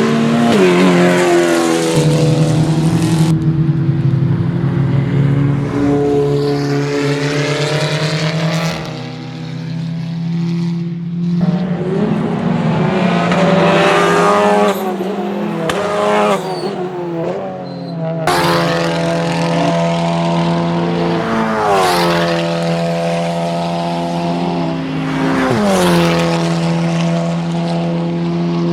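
Touring race cars running at speed past the trackside, engines revving hard through the gears. Several cars go by one after another, each note dropping in pitch as it passes.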